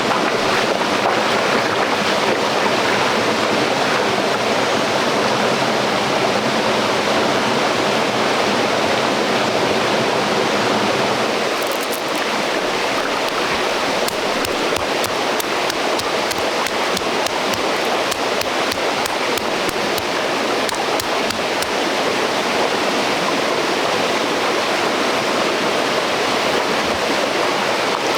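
Stream water rushing steadily. Around the middle it thins in the low end, and a run of light, sharp ticks follows for several seconds.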